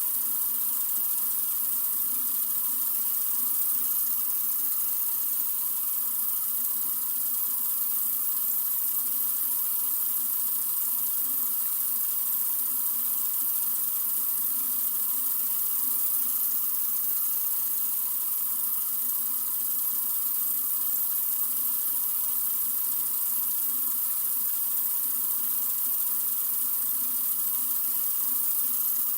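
Water running steadily from a sink faucet: an even, unbroken hiss with no change in flow.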